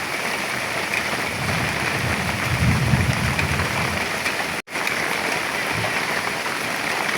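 Heavy rain falling steadily, a dense hiss of drops striking surfaces, with a low rumble swelling for a couple of seconds near the start. The sound drops out for an instant about two-thirds of the way through.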